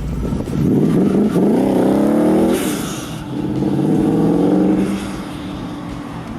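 Car engine revving up, climbing in pitch. After a short break near the middle it pulls hard again, then eases off.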